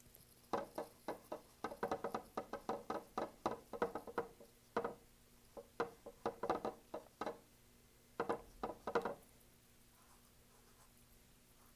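Paintbrush dabbing paint onto a stretched canvas: a run of quick soft taps, several a second, that stops about nine seconds in.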